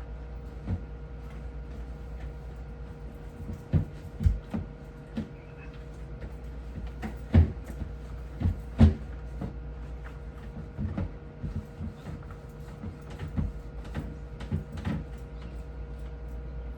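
Scattered knocks and clunks of refrigerator shelves, drawers and containers being handled and set down during cleaning. The loudest come about halfway through, over a steady electrical hum.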